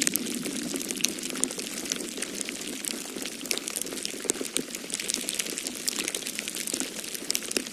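Wood fire in a fireplace crackling, with irregular quick pops and snaps over a steady low rush.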